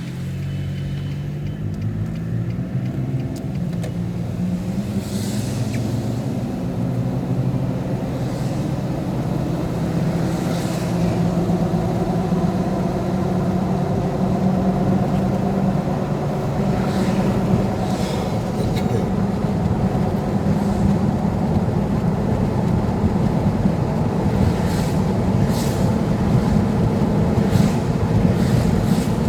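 Road vehicle's engine running as it drives, a steady low drone whose pitch climbs slowly while the overall level builds gradually. Brief hissy swishes come every few seconds over it.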